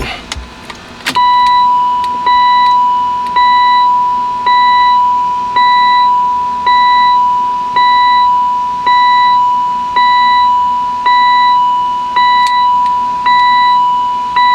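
Car's electronic warning chime, repeating about once a second in even, ringing tones, typical of the key being left in the switched-off ignition.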